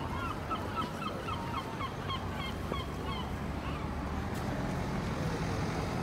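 A bird giving a rapid series of short honking calls, about three or four a second, that fade out about three seconds in, over a steady low background rumble.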